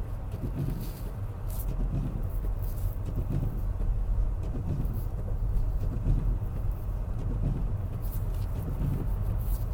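Car being driven: a steady low rumble of engine and road noise, with scattered short ticks at irregular moments.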